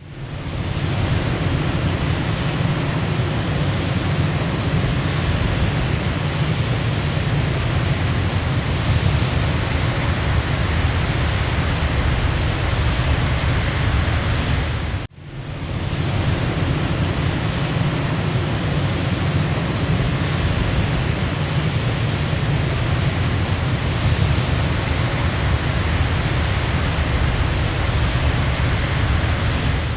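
Waterfall: a steady rush of falling water, heaviest in the low end. About halfway through it drops out for an instant and swells back up.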